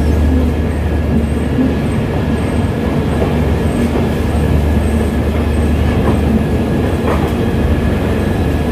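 Train rolling along the track at a station: a steady low rumble of wheels on rails, with a faint steady whine above it.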